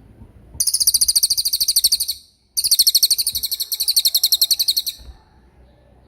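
A small songbird singing two loud, rapid, high-pitched trills, each about two seconds long, with a brief pause between them. The notes come at roughly a dozen per second.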